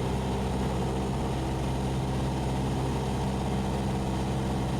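Cessna 172SP's four-cylinder Lycoming engine and propeller droning steadily in flight, heard inside the cabin.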